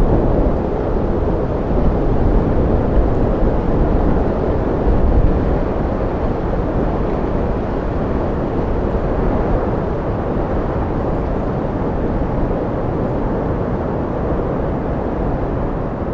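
Wind sound effect: strong wind blowing as a steady, low, dull rush with no whistling tone, slowly easing off toward the end.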